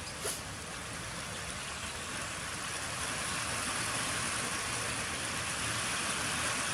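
Steady rain falling, an even hiss that grows a little louder about halfway through.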